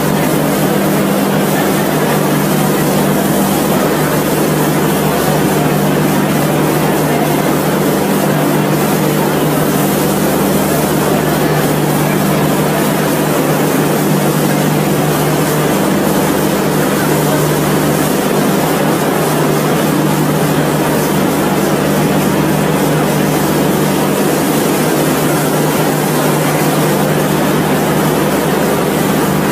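Steady loud rushing and rumbling of a passenger train moving past at close range, with a constant low hum underneath.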